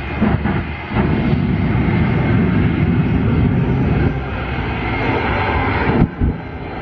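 Loud aircraft engine noise from an airplane in flight: a steady rumble with a brief dip about six seconds in.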